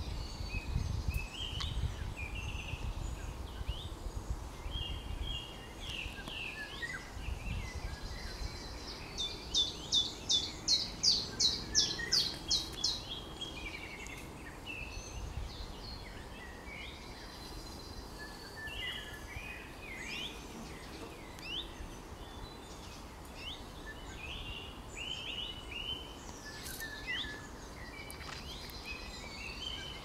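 Mixed songbird chorus: several birds giving short whistled notes and phrases throughout. The loudest part is a rapid run of about a dozen repeated high notes from about 9 to 13 seconds in. A low rumble sits underneath for the first several seconds.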